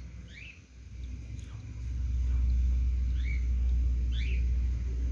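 A few short, thin chirps from a newly hatched cockatiel chick begging as it is hand-fed, over a low rumble that gets louder about two seconds in.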